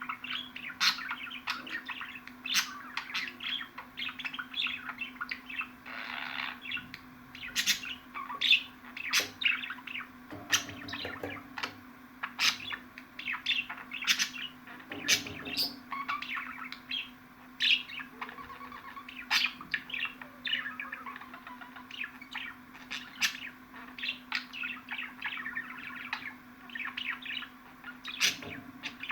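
Budgerigars chattering and warbling continuously, a dense stream of rapid chirps, trills and sharp squeaky calls, over a faint steady hum.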